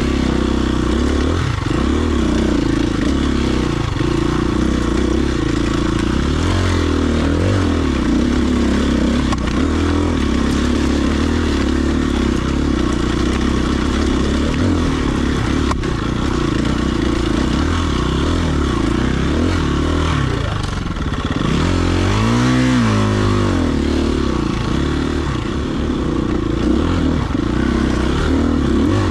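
Dirt bike engine running as the bike is ridden, its revs rising and falling with the throttle, and one quick rev up and back down about three-quarters of the way through.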